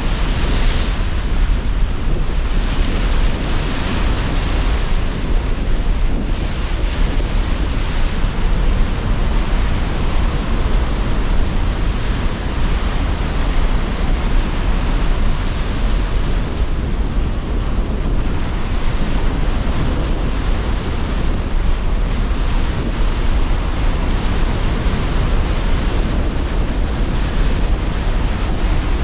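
Sea surf and strong wind together: a continuous wash of breaking waves under gusting wind, with a heavy low rumble and brighter swells of hiss every few seconds.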